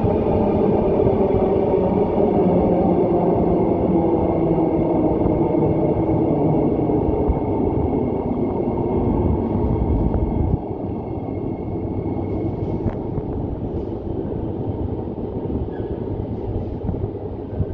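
Perth suburban electric train running out along an underground platform into the tunnel. Its wheels and running gear make a loud, steady rumble with a faint high whine. The sound fades slowly, then drops suddenly about ten seconds in.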